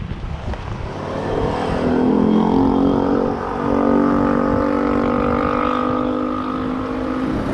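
A motor vehicle engine speeding up, its pitch rising over a second or two and then holding steady, over road and wind rumble.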